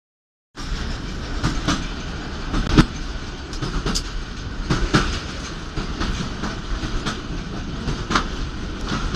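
Passenger train running along the track, heard from its front end: a steady low rumble with irregular sharp clacks of the wheels over the rail joints. It starts about half a second in.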